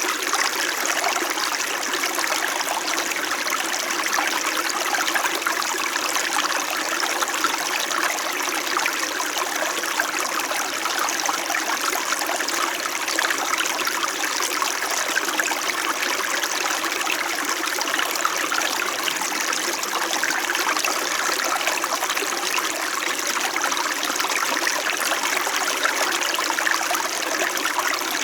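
Small mountain stream flowing steadily over stones: a continuous, even babble and trickle of water.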